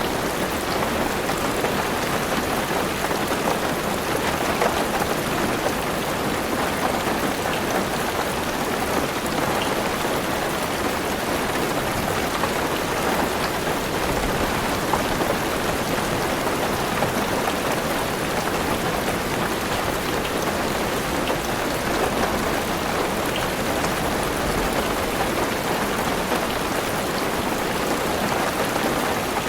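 Heavy rain on a car's roof and windows, heard from inside the car: a steady, dense patter with individual drops ticking through it.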